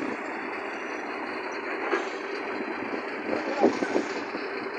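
Heavy vehicle engine running steadily under load as a tractor tows a loaded truck out of the mud, with a few short knocks a couple of seconds in and again near the end.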